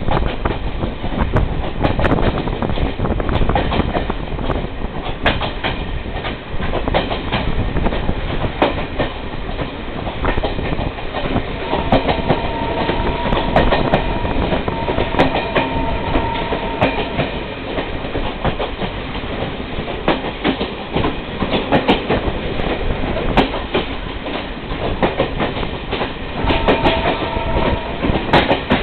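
Train running on its rails, the wheels clicking steadily over the rail joints. A high steady tone is held for about five seconds near the middle, and briefly again near the end.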